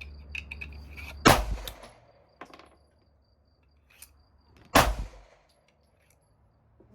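Two shots from a 9mm compact pistol, each a sharp crack with a short echo, about three and a half seconds apart.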